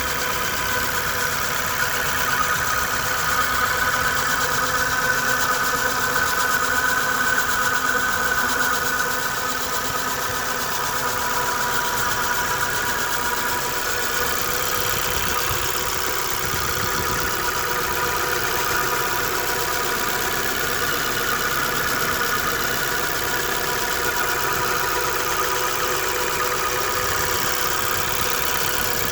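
Engine running steadily with a whine over its running noise, a little louder for the first nine seconds or so.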